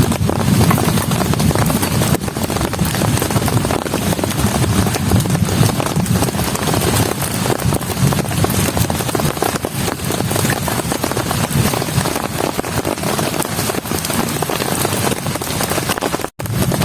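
Heavy rain falling steadily, a dense patter of drops with a low rushing body. The sound drops out for an instant near the end.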